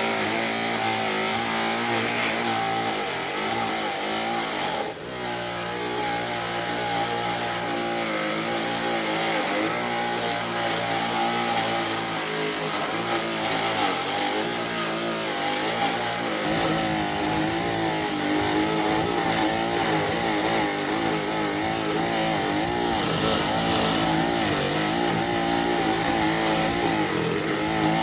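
A power tool's motor running continuously, its pitch wavering up and down as it works the wood. It drops out briefly about five seconds in, then resumes.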